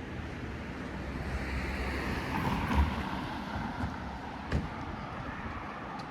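A vehicle passes by on the street, its tyre and engine noise swelling to a peak mid-way and then fading. Two sharp knocks sound, one at the peak and one about a second and a half later.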